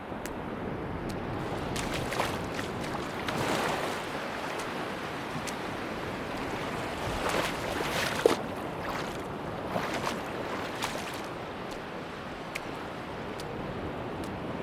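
Sea waves washing onto a beach, with wind. The surf swells every few seconds and is scattered with faint sharp clicks.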